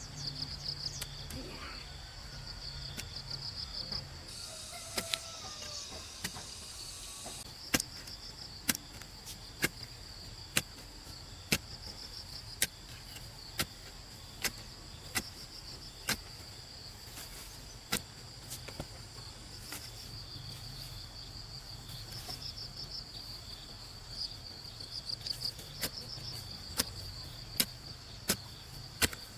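Insects trilling in a steady, pulsing high chorus, with sharp knocks about once a second from some way in, coming faster near the end, as of hand tools striking wood.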